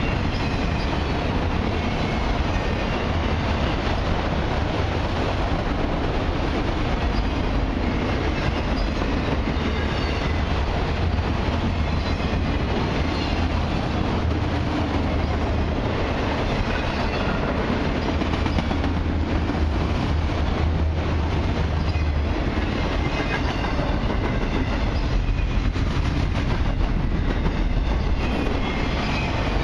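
Freight train of autorack cars rolling past: a steady rumble with the clickety-clack of steel wheels over the rails, and faint brief wheel squeals now and then.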